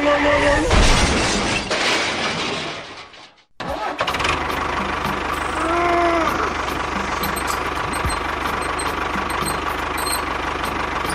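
After a short break about three and a half seconds in, a small engine starts running steadily with a fast, even putter. Before the break there is a noisy stretch with a brief voice-like cry.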